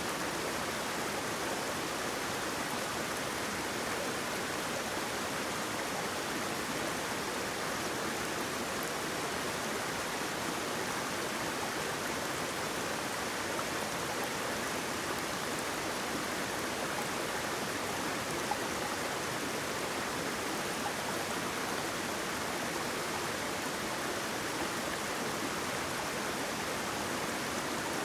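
Flowing water of a waterfall, a steady, even rush without breaks.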